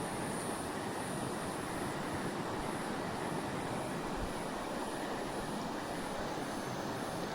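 Steady rush of a creek's flowing water, with a high, thin chirp pulsing about twice a second above it.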